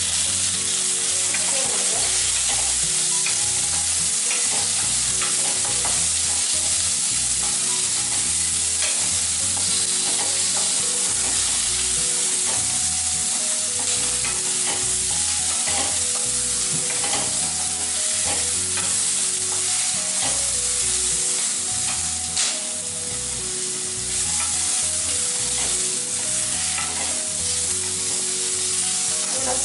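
Sliced onions, garlic and coriander seeds sizzling steadily in hot oil in a kadhai, stirred with a spatula that clicks and scrapes against the pan now and then.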